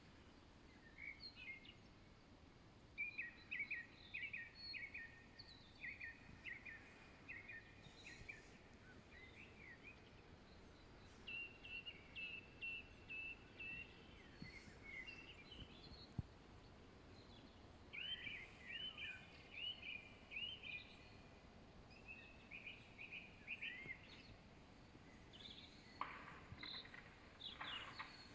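Songbirds singing in short repeated trilled phrases, a few seconds apart, over a faint steady background hiss.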